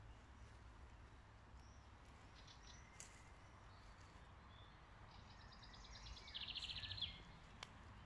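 Faint songbird chirps over a low outdoor rumble, with a quick, rapid trill from a small bird about three quarters of the way through, the loudest sound.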